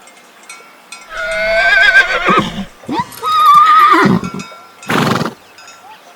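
Horse whinnying twice, two loud wavering high-pitched neighs about a second and a half each, followed by a short breathy burst about five seconds in.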